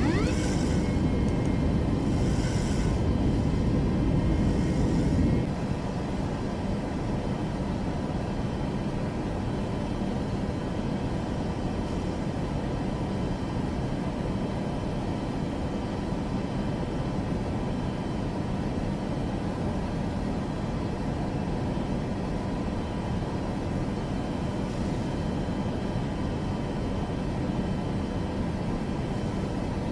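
Aircraft engines rumbling, loud for about the first five seconds, then dropping suddenly to a quieter, steady noise.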